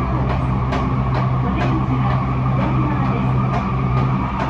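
Tokyo Metro 05 series electric train heard from inside a passenger car while running at speed: a steady low hum and rolling noise, with sharp wheel clicks about twice a second.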